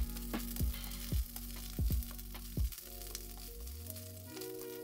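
Shredded cabbage sizzling as it is stir-fried in a hot stainless steel wok, stirred with a wooden spatula. Background music with a steady beat plays over it, the beat dropping out and a new chord coming in near the end.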